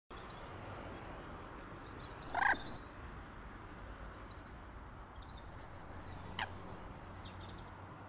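A bird gives one short, loud call about two and a half seconds in and a shorter, thinner call near six and a half seconds, with faint chirping of small birds, over a steady low hum of distant road traffic.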